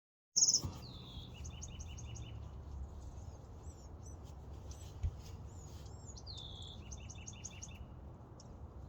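Wild birds singing. One bird sings the same phrase twice, about half a second in and again about six and a half seconds in: a high note, a downslurred note, then a quick trill. Other birds chirp in between, over a steady low rumble, with a single low thump about five seconds in.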